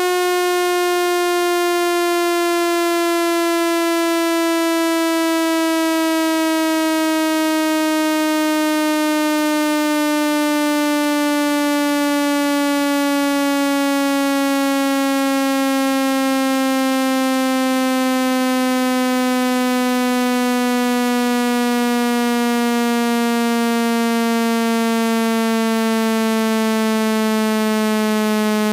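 Speaker-cleaning tone: a single buzzy electronic tone at a steady level, gliding slowly and evenly down in pitch. It is played through a phone's speaker to shake water droplets and dust out of it.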